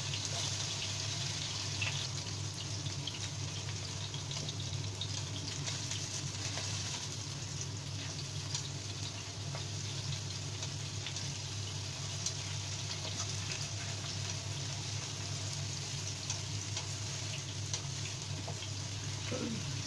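Potato chunks shallow-frying in oil in a nonstick wok: a steady sizzle with small scattered crackles, over a steady low hum.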